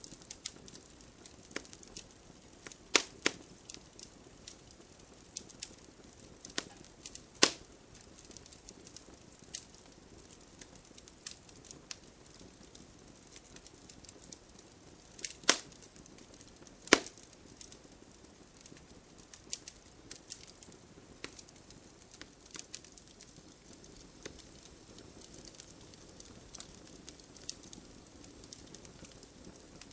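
Wood fire crackling in a fireplace: irregular sharp pops and snaps over a low steady hiss, with a few louder pops scattered through.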